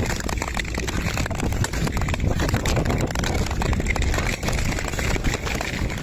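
Freezing rain: a dense patter of ice pellets ticking sharply, over a low steady rumble.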